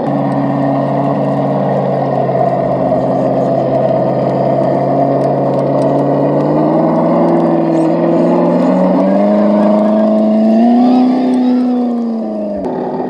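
Electronic engine-sound unit on a radio-controlled scale truck playing a simulated truck engine, running steadily and then revving up in pitch over several seconds before dropping back sharply near the end.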